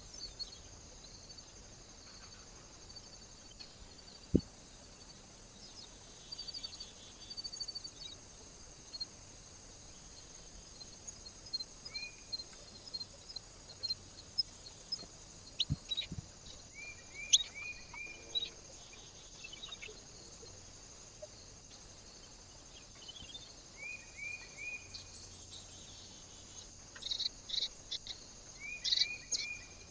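Small songbirds at a feeder chirping and calling, with several quick runs of three or four short notes and a few sharp taps, one loud tap about halfway through.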